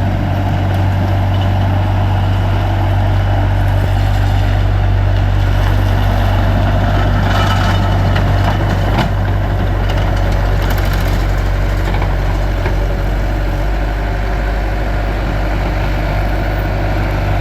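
Bobcat T300 tracked skid steer loader's four-cylinder diesel engine running steadily, a deep even drone with no change in speed.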